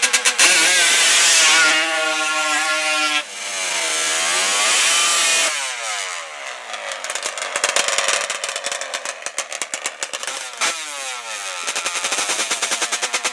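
Drag-racing ATV engines launching hard and revving high, the pitch climbing and bending, then falling away after about five seconds. An engine idles with a fast, even putter near the end.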